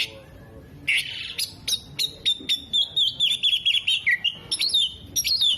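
Oriental magpie-robin singing: a couple of harsh rasping notes, then a fast run of sharp chirps and trilled, wavering whistles.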